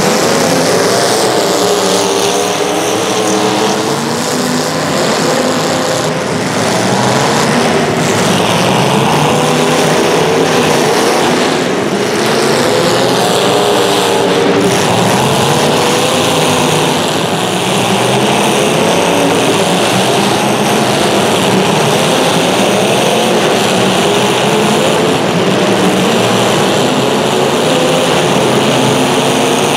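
Several small racing engines running at once, their pitches rising and falling over and over as they accelerate and back off through a race heat.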